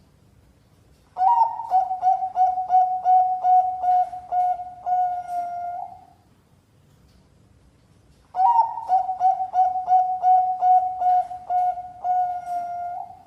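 Bangkok-line zebra dove (perkutut) singing its cooing song twice. Each phrase opens on a higher note, runs into a quick series of repeated coos and ends on a longer held coo.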